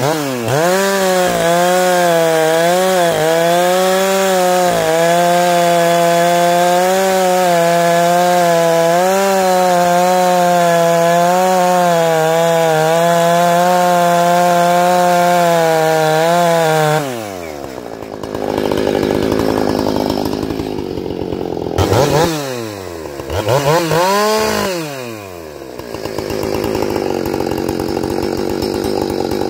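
Ported and muffler-modded Husqvarna 455 Rancher two-stroke chainsaw held at full throttle for about 17 seconds, its high note dipping slightly now and then, then dropping back to a low, rough idle and revved up and down twice.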